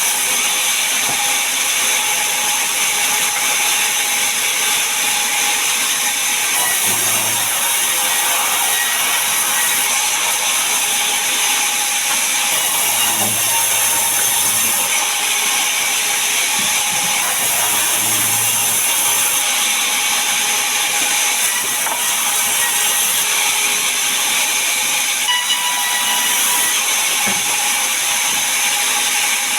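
Sawmill saw running and cutting mahogany log: a loud, steady hiss whose tone shifts every few seconds.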